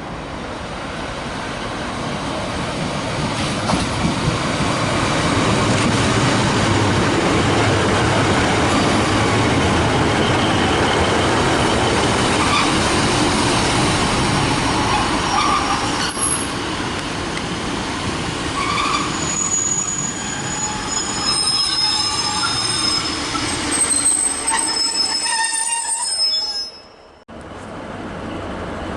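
Passenger train running past on the track, its rumble building over the first few seconds, with high-pitched wheel squeal in the later part. The sound breaks off suddenly near the end.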